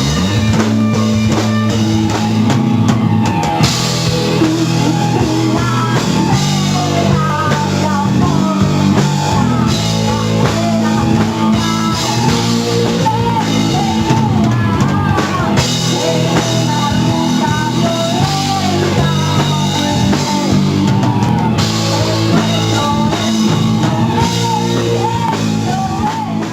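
Rock band playing: drum kit and bass under electric guitar, with a bending melody line carried above.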